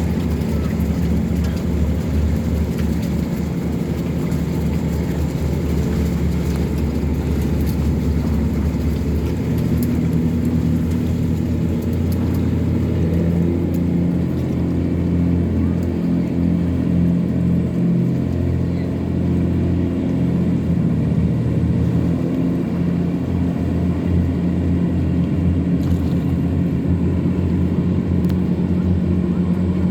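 Tugboat engine running steadily under load while towing a cargo pontoon, a deep continuous drone whose note shifts slightly about nine seconds in.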